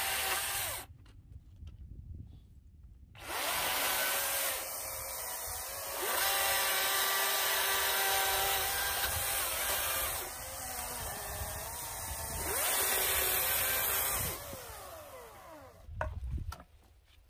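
Battery-powered chainsaw cutting through a log: a short squeeze of the trigger, then about eleven seconds of the electric motor whining as the chain bites into the wood, its level rising and falling with the load before it stops. A low thud near the end.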